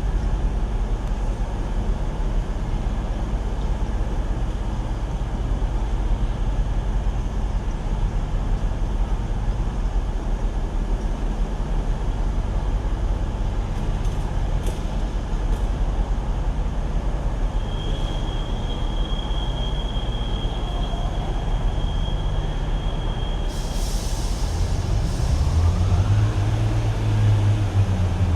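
Class 142 Pacer diesel multiple unit's underfloor engines idling with a steady low rumble at the platform. A steady high tone sounds for about six seconds, a hiss of air cuts in about two-thirds of the way through, and then the engine note rises and grows louder as the unit pulls away.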